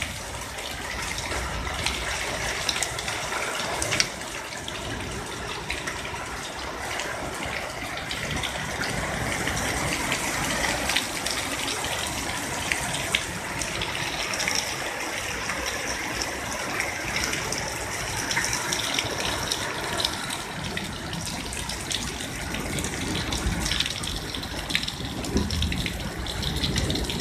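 Heavy summer thunderstorm downpour: a steady rush of rain with water pouring and splashing, and scattered sharp taps throughout.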